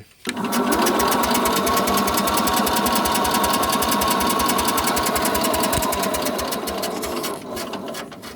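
Sears garden tractor engine being cranked by its electric starter in a fast, even rhythm for about seven seconds without firing, then the cranking stops. It is a no-start: the owner suspects the engine has lost spark.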